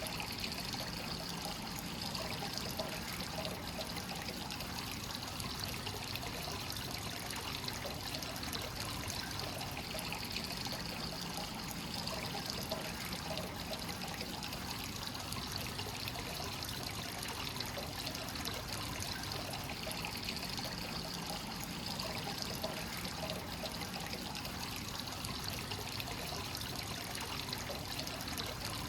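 Free-flowing hot spring water pouring and trickling steadily into a bath, with a continuous splashing flow.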